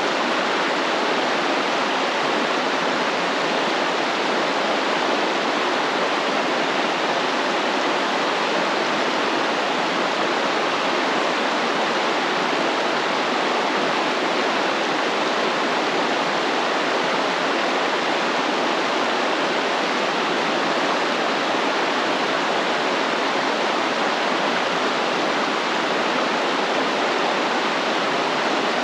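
A stream flowing, its water rushing steadily and evenly.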